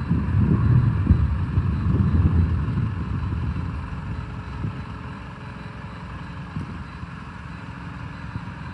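Diesel engine of a 2011 Isuzu NRR truck running, a low rumble mixed with wind buffeting the microphone; it eases to a lower, steadier level about four seconds in.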